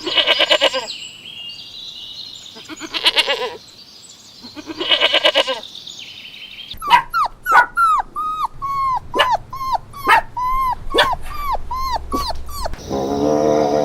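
Animal calls: three drawn-out pitched calls about two seconds apart, then a quick run of short yelps that each fall in pitch, about two a second.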